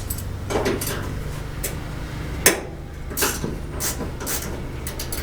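Irregular clinks and knocks of hand tools and metal hood hardware being handled, about eight in all, with one sharp, louder knock about halfway through. A steady low hum runs underneath.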